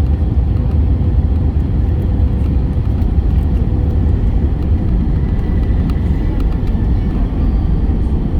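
Airbus A321 cabin noise during landing: a steady, loud low rumble of engines and airflow with a faint thin whine over it.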